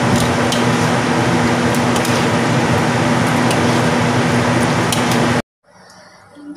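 Chili sambal and fried chicken sizzling in hot oil in a wok while a spatula stirs them, with light scraping clicks and a steady low hum underneath. The sound cuts off abruptly about five and a half seconds in.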